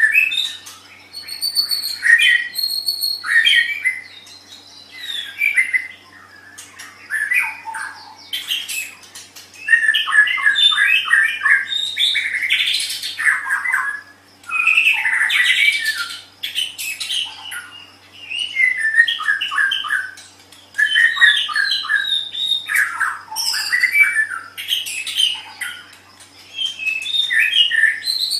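White-rumped shama (murai batu) singing: varied phrases of rapid notes, one after another, with short pauses between them.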